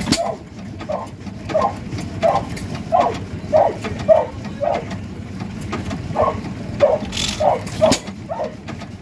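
Waterloo Boy hopper-cooled stationary engine running, with a regular chuff about every half second and sharp mechanical clicks between the chuffs.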